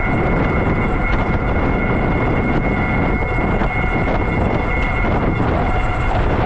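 Electric bike on the move: wind rushing over the action camera's microphone, with a steady high-pitched motor whine underneath.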